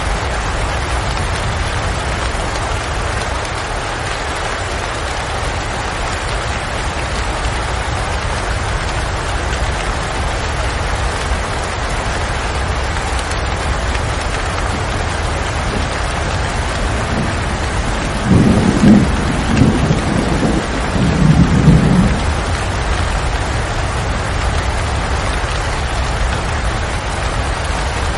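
Steady heavy rain falling, with a low rumble of thunder rolling in a few surges about two-thirds of the way through.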